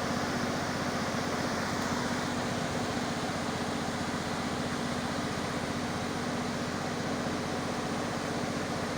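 Kubota ZL600 diesel generator engine running steadily on vegetable oil, with its radiator fan blowing. A constant hum under a fast, even pulsing that holds at one pitch throughout.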